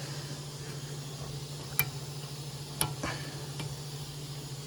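Sharp metal clicks of a 12-point socket and wrench being fitted onto a bolt head: two clear clicks about a second apart and a fainter third, over a steady low hum.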